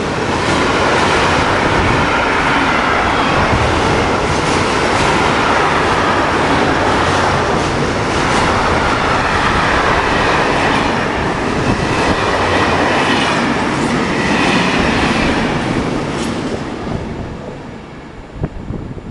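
Freight train passing close by, the wagon wheels clicking over the rail joints in a steady stream of knocks. The noise fades away over the last two seconds or so.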